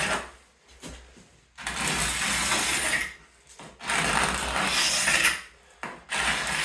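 Paint scraper dragged over painted woodwork, stripping loose paint in three long scraping strokes of about a second and a half each, starting after a short pause.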